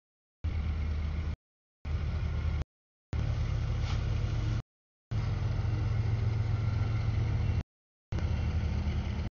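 CSX mixed freight train rolling through a grade crossing: a steady low rumble of the passing cars, with one sharp clank about four seconds in. The sound drops out to dead silence for about half a second several times, which is a fault in the stream's audio.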